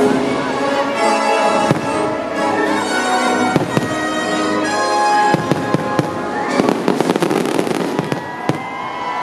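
Aerial fireworks bursting and crackling over music, with a dense run of crackles from about six and a half seconds to eight and a half.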